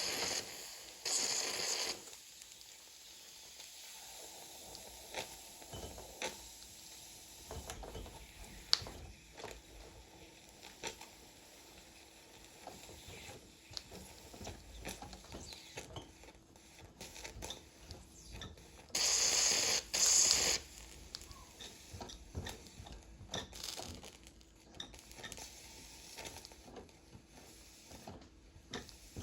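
Mamod TE1A toy steam engine under live steam: short bursts of steam hissing at the start and again about two-thirds through, with light metallic clicks and rattles of the small mechanism in between.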